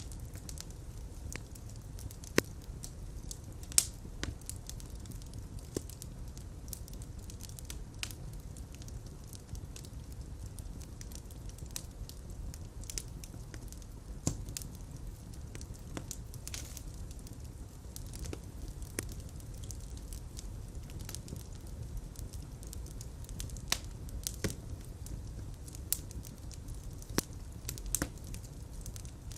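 Fireplace fire crackling: irregular sharp pops and snaps over a steady low rumble of flames, with a couple of louder pops a few seconds in.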